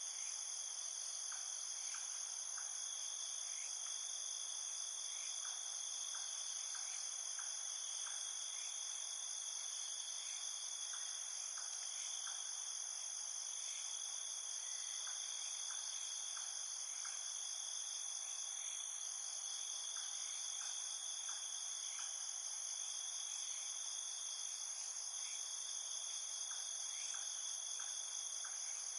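Steady, high-pitched chorus of chirring insects, several pitches layered together without a break, with faint scattered ticks.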